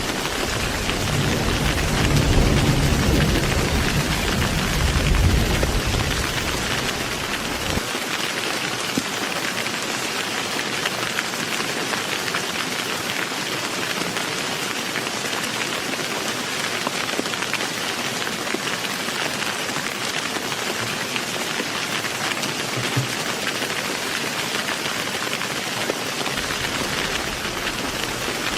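Heavy rain falling steadily, a dense even hiss. Low thunder rumbles through the first several seconds, swelling a little at about two and five seconds in, and cuts off abruptly about eight seconds in.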